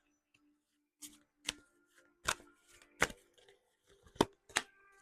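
Six sharp, uneven taps and clicks of tarot cards being handled and laid on a table, over a faint steady background tone.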